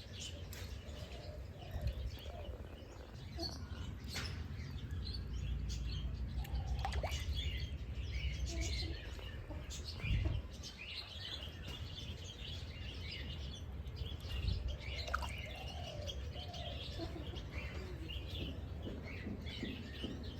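Several small birds chirping and twittering, many short calls overlapping throughout, over a steady low rumble.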